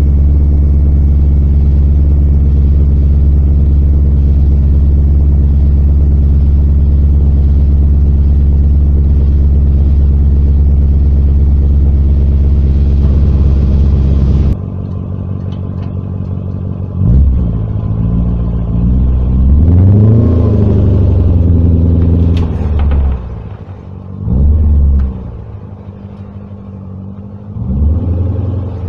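BMW E39 M5's 4.9-litre S62 V8 through a Fox exhaust with a Magnaflow X-pipe, idling steadily and loud with a deep rumble, then dropping abruptly to a quieter, lower idle about halfway through. After that it is reved four times: a short blip, one longer rev that climbs and falls back, then two more blips.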